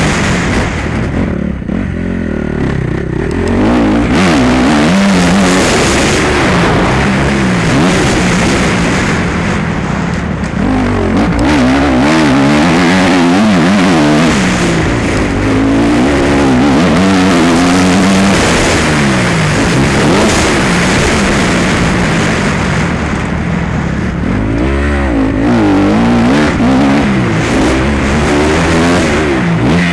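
Motocross bike engine revving hard and dropping back over and over as the throttle opens and closes, its pitch rising and falling every second or two.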